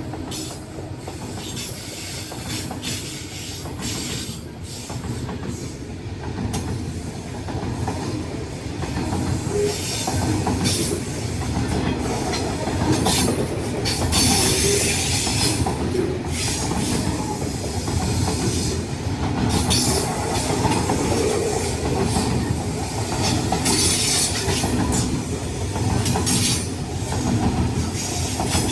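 A train running past, its wagons rumbling steadily with repeated clicks of the wheels over the rail joints.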